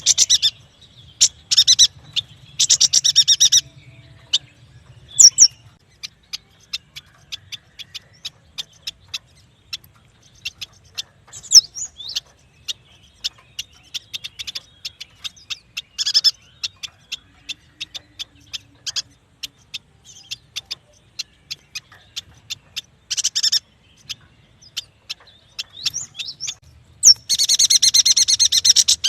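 Yuhina birdsong: a fast, uneven stream of short, sharp chirps, broken by a few dense, buzzy trills, the longest near the end.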